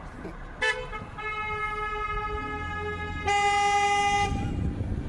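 A vehicle horn sounding one steady held tone for about three and a half seconds, getting louder about a second before it stops.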